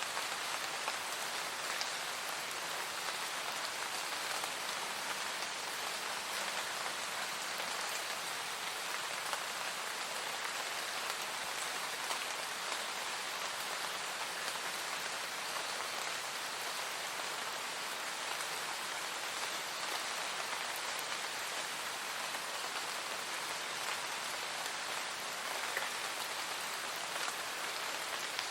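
Steady, even rainfall, with drops pattering on a surface.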